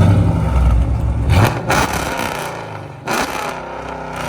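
5.7-litre V8 with headers running loud through its exhaust, blipped several times, then settling to a steadier idle near the end.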